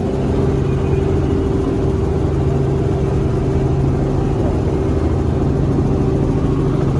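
Helicopter engine and rotor noise heard from inside the cabin: a loud, steady drone with a constant low hum and a higher steady tone running through it.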